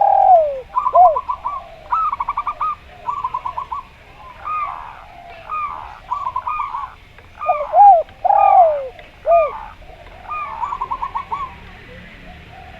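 Zebra dove and spotted dove calling together. Quick runs of short staccato coos alternate with drawn-out coos that arch and fall in pitch, repeated phrase after phrase until they stop near the end.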